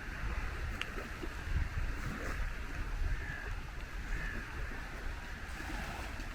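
Outdoor rain ambience: a steady wash of rain with wind rumbling on the microphone.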